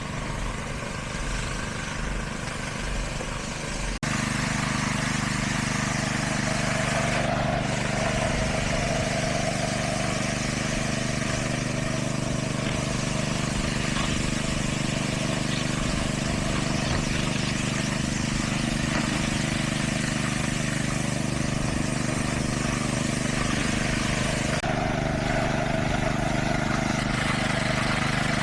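Engine of heavy construction machinery running steadily at a constant speed, its tone changing abruptly about four seconds in.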